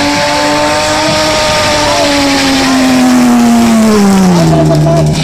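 Drifting BMW 3 Series coupe's engine held at high revs while its rear tyres spin in smoke, the revs then dropping steadily over the last few seconds.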